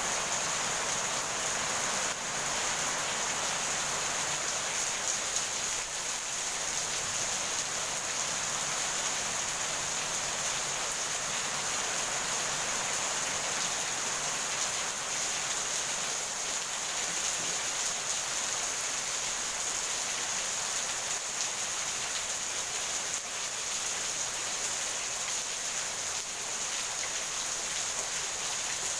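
Heavy rain falling steadily, a dense even hiss with no thunder in this stretch.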